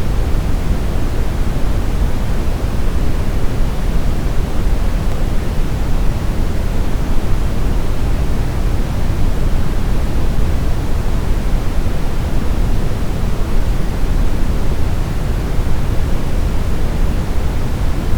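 Steady brown noise: an even, deep rumbling hiss, strongest in the low end and rolling off toward the highs, with no change or events.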